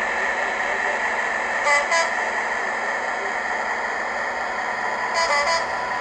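Digital sound of a Class 56 diesel locomotive played through a DCC model's small onboard speaker: the engine running steadily, with a short two-note horn about a second and a half in and another two-note horn near the end.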